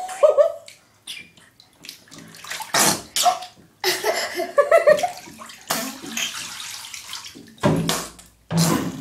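Water splashing in a bathtub in repeated short bursts, with a couple of brief wavering squeaky sounds in between.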